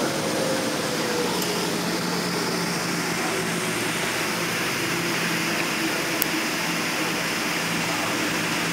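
Steady cabin noise inside a Boeing 777-200LR airliner: its GE90 engines and air system running with an even rushing sound and a constant low hum.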